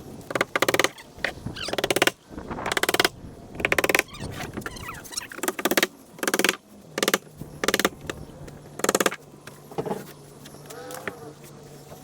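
A power tool running in about nine short bursts, each well under half a second, with a fast rattling pulse inside each burst. A steady low hum runs underneath in the second half.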